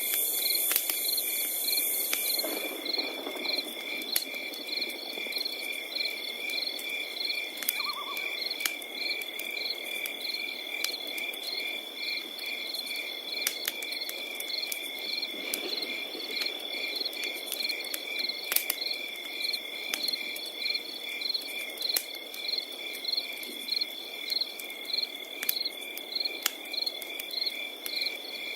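Crickets calling together: one steady, unbroken high trill with others chirping in even, rapid pulses. Under them, a wood fire crackles with a soft hiss and scattered sharp pops.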